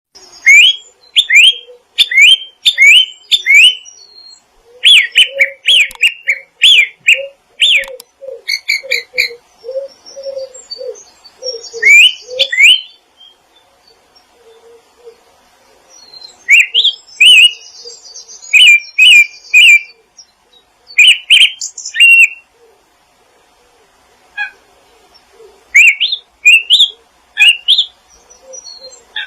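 Wild small birds chirping and singing in bursts: quick runs of short rising notes with lulls between them, over lower repeated short calls in the first half.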